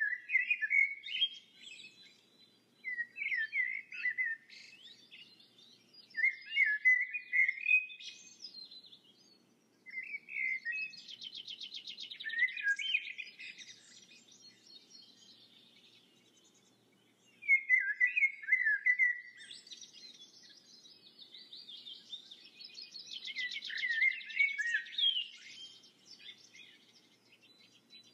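A songbird singing: repeated chirping, warbling phrases a few seconds apart, two of them holding a fast trill.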